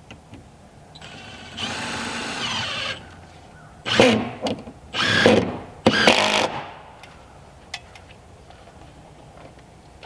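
A power drill running in short bursts: one steady run of about a second, then three louder bursts close together.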